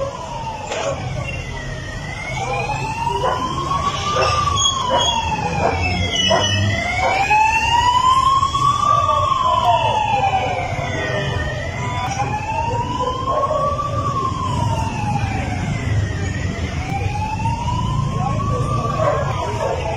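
Emergency vehicle siren in a slow wail, rising and falling about every five seconds, four times over, above a steady low rumble.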